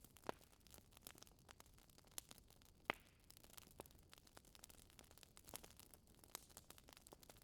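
Wood fire in a fireplace crackling faintly, with irregular small pops and one sharper pop about three seconds in.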